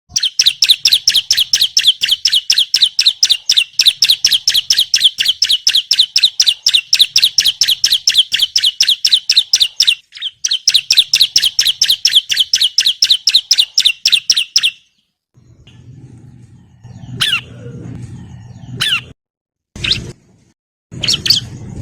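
Bar-winged prinia (ciblek) calling: a fast run of sharp repeated chirps, about five a second, that breaks briefly near ten seconds and stops about fifteen seconds in. After it come a few separate chirps over a low hum.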